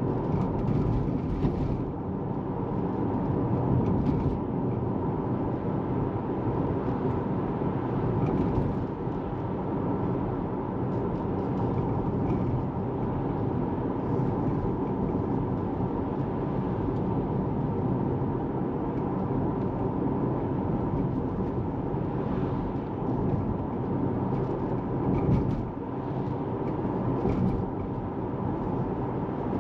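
Tesla Model 3 on the move: steady tyre and road noise with a low rumble, and a few faint knocks from bumps in the road. The car is electric, so no engine is heard.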